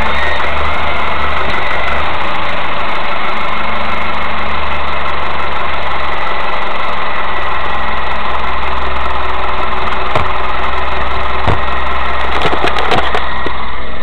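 Mazda 3 engine idling steadily, with a few sharp clicks in the last few seconds. The owner believes the car's engine mount #1 has failed.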